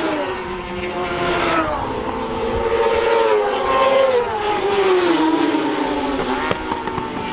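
Racing motorcycle engines at full race pace, the engine notes rising and falling again and again as the riders open and shut the throttle and change gear, with more than one bike heard at once.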